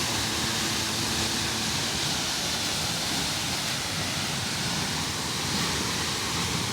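Steady rushing of falling water, an even hiss without change in level.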